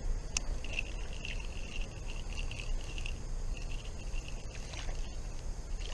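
Creek water sloshing and trickling around a wader's legs, with a sharp click just after the start and a high, wavering whir for about three and a half seconds.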